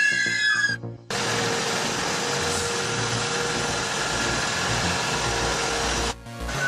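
Background music that cuts out about a second in, followed by about five seconds of a steady, even machine noise with a faint hum in it, then music again near the end.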